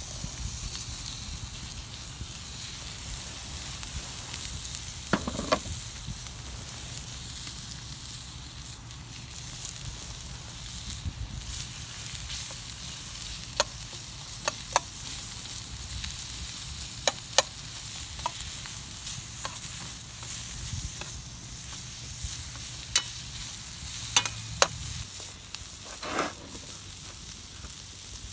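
Food sizzling as it fries in a pan, a steady hiss broken by scattered sharp pops.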